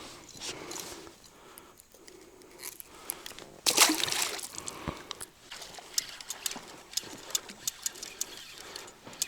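Light clicks and rattles of pliers and a lure's hooks while a small asp is unhooked, with a louder rush of noise about four seconds in.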